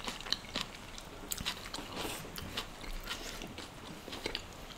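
Close-miked eating sounds: chewing with small wet mouth clicks and lip smacks several times a second.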